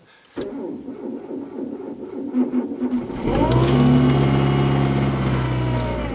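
Renault Laguna's K4M 1.6-litre four-cylinder petrol engine cold-started at −26 °C: the starter cranks for about three seconds, then the engine catches on the first attempt, revs up, and settles into a steady cold idle that slowly drops.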